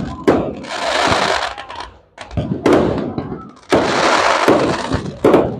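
Aerial fireworks going off: several sharp bangs, each followed by about a second of dense crackling as the shells burst.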